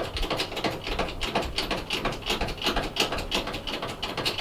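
Rapid, irregular mechanical clicking, like a ratchet, running on steadily.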